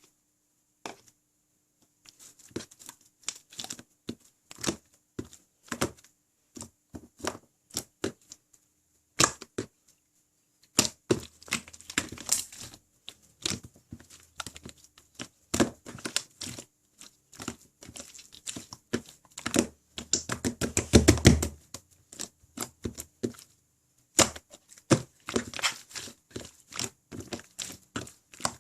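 Butter jiggly slime being squeezed, poked and stretched by hand, giving irregular small sticky clicks and pops. The pops crowd together and grow loudest for a second or two about twenty seconds in.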